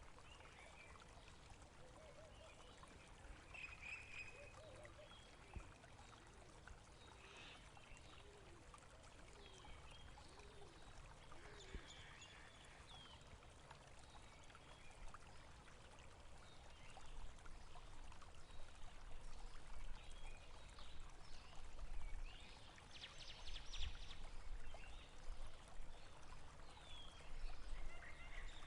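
Running water from a stream, trickling and splashing steadily, with short bird chirps now and then. A low rumble grows stronger in the second half.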